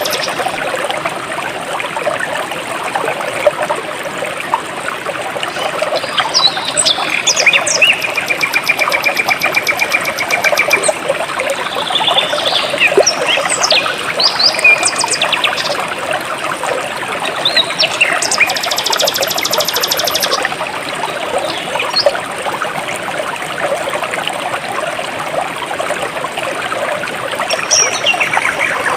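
Jungle stream water flowing steadily. Birds chirp over it through the middle, along with a high, fast buzzing trill that comes twice.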